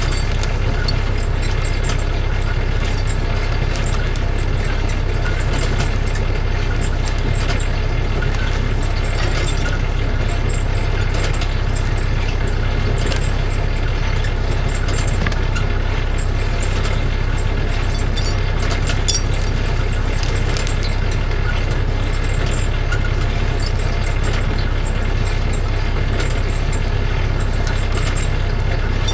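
A vehicle engine runs steadily at a constant speed, with scattered knocks and rattles over it.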